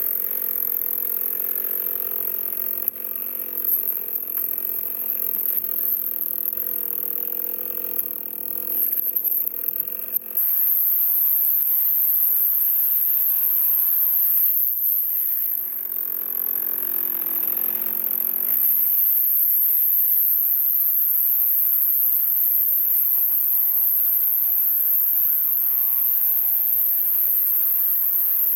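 Chainsaw cutting through a log, the engine's pitch rising and sagging as the chain bites and the load changes.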